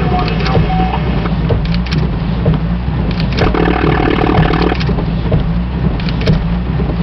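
Steady, loud low rumble of a running vehicle engine, with scattered clicks and rattles and a brief hum about three and a half seconds in.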